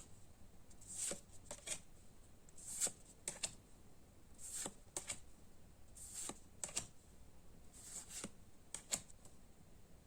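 Pokémon trading cards being slid off one another one at a time, a faint short papery swish roughly every second.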